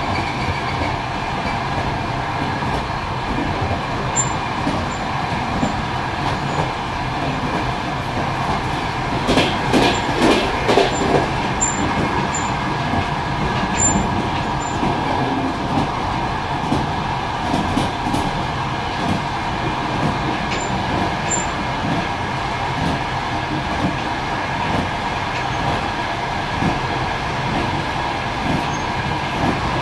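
Passenger train carriage running along the track, heard from inside the last car: a steady rolling rumble with a hum. A cluster of wheel clacks comes around ten seconds in.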